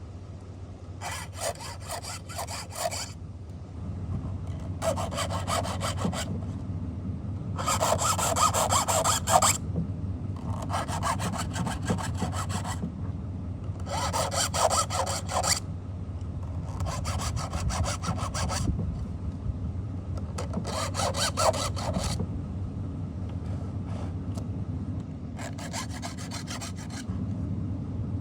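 Hand file rasping across a chainsaw chain's cutter teeth in slow, separate strokes: about eight strokes, each lasting a second or two, with short pauses between them. A steady low hum runs underneath.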